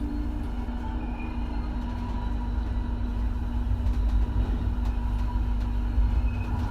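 Tram running, heard from inside the passenger car: a steady low rumble with a steady hum over it and faint ticks now and then.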